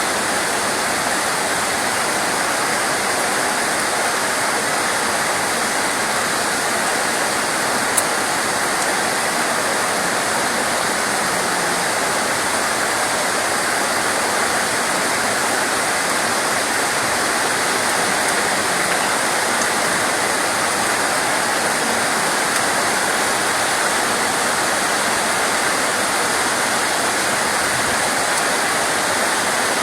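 Steady, even hiss of heavy rain, unchanging throughout, with one faint click about eight seconds in.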